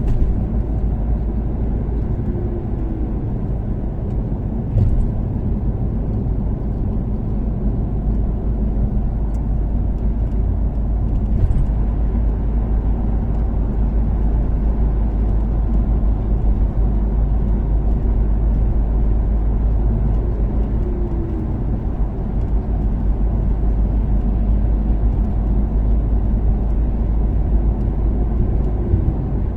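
Toyota Caldina ST246W's turbocharged 3S-GTE four-cylinder engine and tyre noise at a steady cruise, a constant low drone. Two brief knocks come about five seconds and about eleven seconds in.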